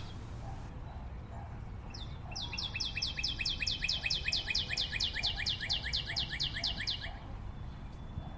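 A bird singing a rapid trill of quick, evenly spaced, downward-sliding high notes, about six or seven a second. It starts about two seconds in and stops about two seconds before the end. Under it runs a low, steady background rumble.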